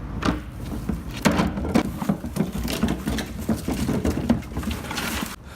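Wheeled plastic trash bin being rolled back over pavement, its wheels and body rattling with irregular clattering knocks over a low steady hum.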